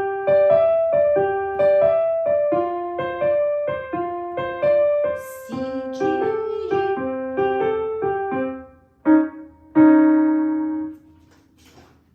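Piano playing a simple beginner melody one note at a time, about two notes a second, with lower notes joining about halfway through. It ends on a long held note that fades away.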